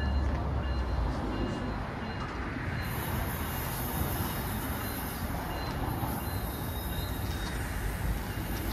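A train passing: a steady rumble and rushing noise of wheels on rail, with a high hiss joining about three seconds in.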